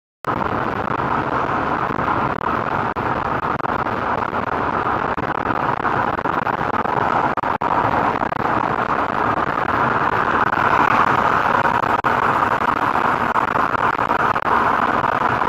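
Steady road and engine noise of a moving car, heard from inside the cabin through a dashcam microphone. It starts suddenly and stays even throughout, with no impact standing out.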